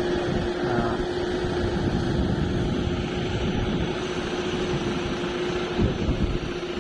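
A heavy diesel engine of a loading machine running steadily, a low rumble with a steady hum. About six seconds in the hum drops away and a thump sounds.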